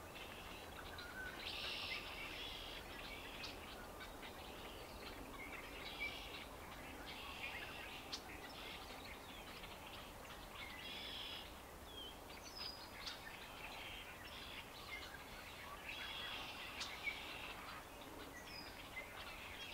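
Birds chirping and calling in short, irregular bursts over faint steady background noise.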